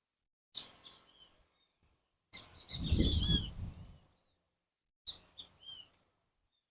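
Birds chirping in short curved calls, heard in three brief stretches with dead silence between them. A louder low rumble comes in the middle stretch, about two and a half to four seconds in.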